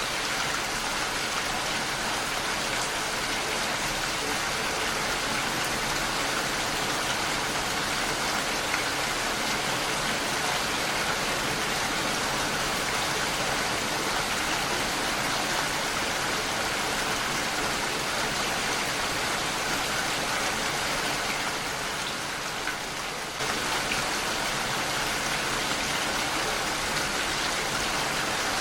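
Heavy rain falling steadily on a window, a dense even patter. About three-quarters of the way through it briefly eases a little, then snaps back to full strength.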